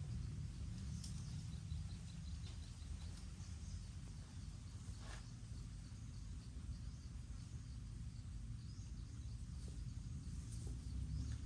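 Jungle ambience: faint bird and insect chirps, with a short trill of quick chirps early on, over a steady low rumble.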